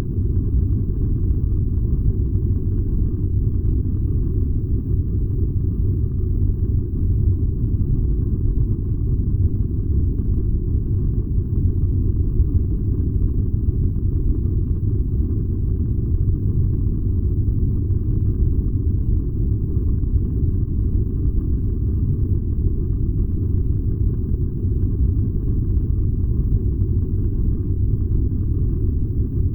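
Furnace running with a steady low rumble that stays even throughout.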